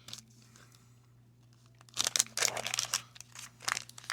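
Quiet for about two seconds, then the waxed-paper wrapper of a 1990 Fleer baseball card pack crinkling and tearing in quick, dense crackles as it is ripped open.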